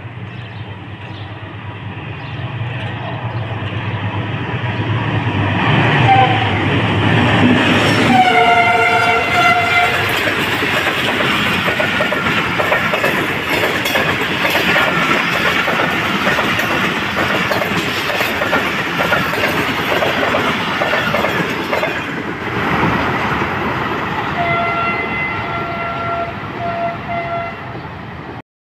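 Pakistan Railways express train passing at speed: the diesel locomotive's engine rumble builds as it approaches, and its multi-note horn blows about eight seconds in. Then the coaches clatter past on the rails in a long, loud rush that eases after about twenty-two seconds. Horn notes sound again near the end.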